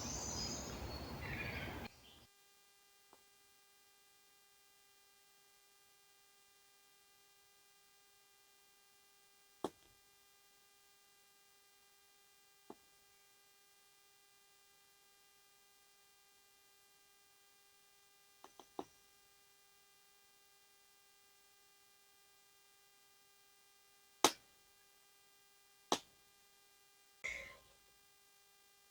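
Birdsong and outdoor ambience for about two seconds, then an abrupt cut to near silence with a faint steady hum and a few isolated clicks.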